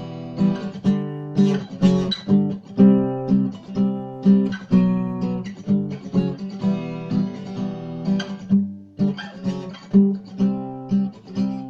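Acoustic guitar strummed in a steady rhythm of chords, with a short break about eight and a half seconds in.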